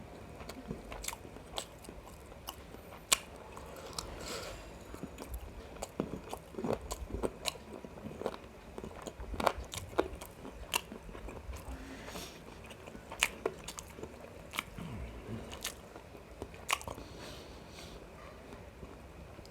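Close-up eating sounds of a person chewing biryani with mutton gravy: wet chewing broken by frequent, irregular sharp mouth clicks and smacks.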